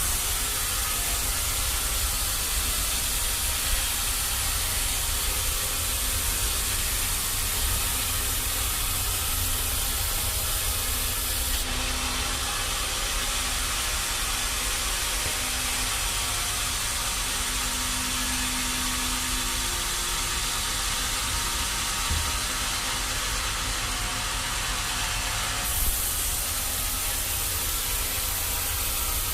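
Sawmill machinery running steadily: a deep rumble under a continuous hiss. The high part of the hiss drops away abruptly about twelve seconds in and comes back near the end.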